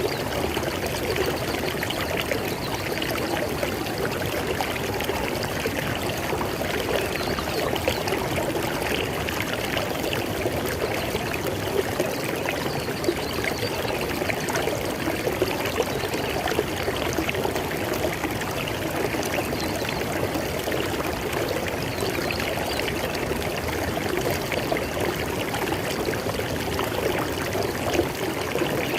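River water flowing and babbling over rocks, a steady rushing with small splashes and gurgles.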